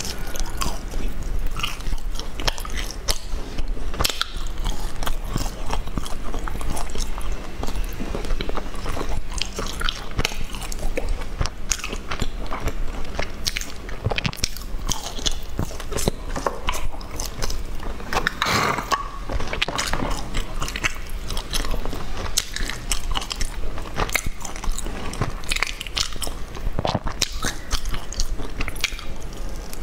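Close-miked biting and chewing of a sesame-coated pastry bar, with many small wet clicks and crackles throughout.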